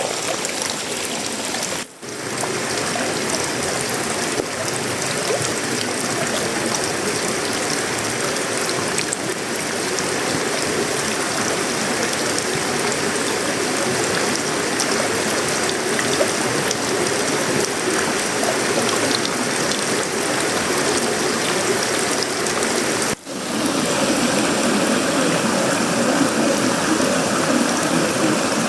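Steady heavy tropical rain falling on a sheet-metal roof, wood and leaves. The sound drops out for an instant twice, about two seconds in and a few seconds before the end.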